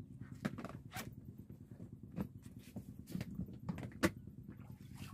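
Dry corn husks being handled and torn, giving irregular crisp rustles and snaps, the sharpest about four seconds in. A low steady hum runs underneath.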